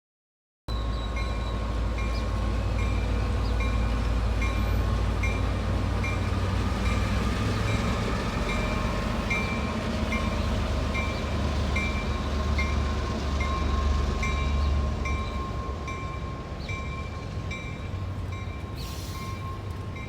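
Diesel freight train passing with a heavy low rumble, a bell ringing steadily about one and a half strokes a second over it. The sound cuts in abruptly just under a second in and eases slightly after about fifteen seconds.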